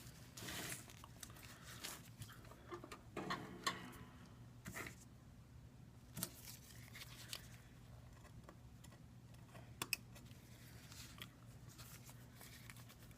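Faint, scattered clicks and scrapes of small-part handling as the iPad 2's LCD cable is disconnected and the LCD lifted, over a steady low hum.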